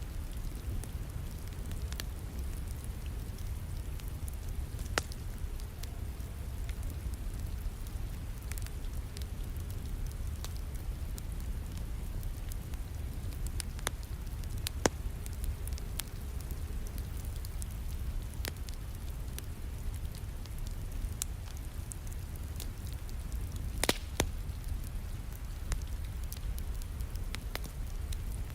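Wood fire crackling in a fireplace over steady rain. Scattered sharp pops come from the fire, with a cluster of loud ones about three quarters of the way through.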